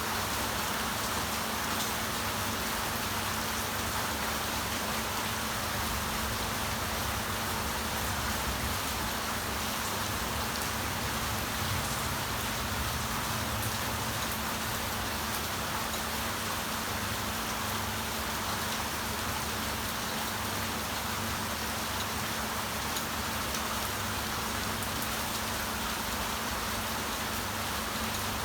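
Steady rain falling, an even hiss that holds at the same level without let-up.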